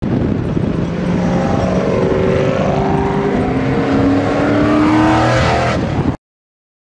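Car engine running hard under load, its note falling and then rising in pitch as it revs. It cuts off suddenly about six seconds in.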